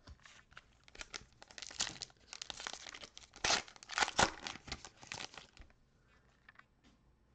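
Trading-card pack wrapper being torn open and crinkled by hand, a dense crackling that runs for a few seconds and fades to a few light clicks near the end.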